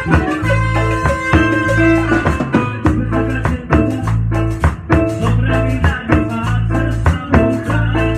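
Live band playing a salsa-style tropical song without vocals: steady bass notes under a regular beat of drums and a shaker or maraca, with a melody line on top.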